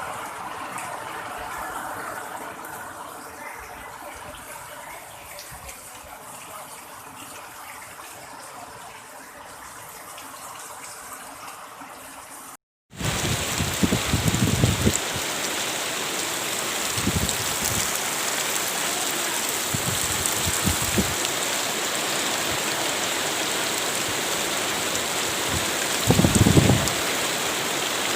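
Heavy rain pouring down in a loud, steady hiss, with a few low thumps around it. It comes in abruptly about 13 seconds in, after a quieter stretch of hiss and faint hum that ends in a brief dropout.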